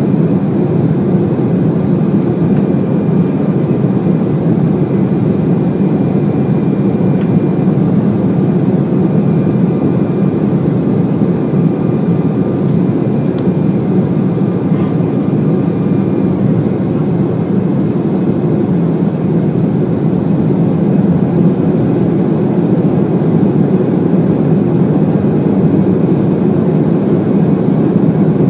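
Steady engine and airflow noise heard inside the cabin of an Embraer E190 jet airliner with GE CF34 turbofans, with a faint high whine over it that stops about halfway through.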